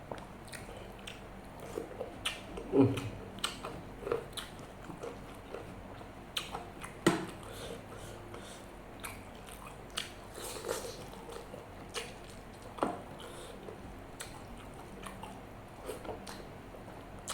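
Close-miked chewing and mouth sounds of a person eating nasi Padang mixed with martabak Mesir: irregular wet smacks and sharp clicks, loudest about three seconds in and again about seven seconds in.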